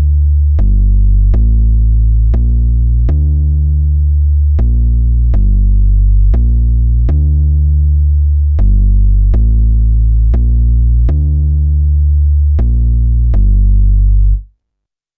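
A JD-990 synth preset playing a line of low bass notes. Each note starts with a bright click, and a new one comes about every three-quarters of a second. The line stops abruptly near the end.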